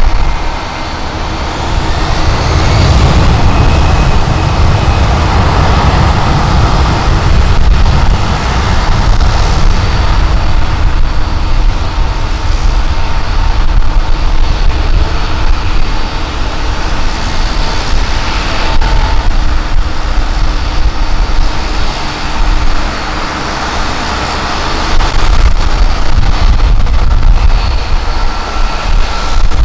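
Jet airliner engines running loud and steady, with a thin whine held over the rumble, mixed with gusty wind buffeting the microphone.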